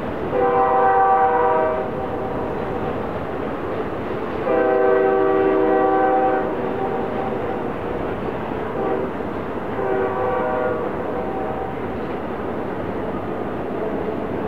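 Freight locomotive's multi-chime air horn sounding three blasts, two long and then a short one, over the steady rumble of the passing train.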